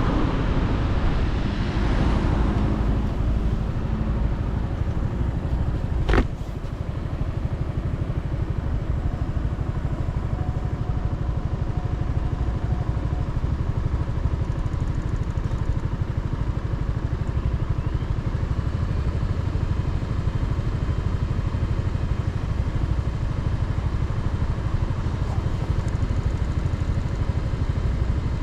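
Motorcycle engine with wind noise on the microphone as the bike slows, the engine note falling over the first few seconds. A sharp click comes about six seconds in, then the engine idles steadily.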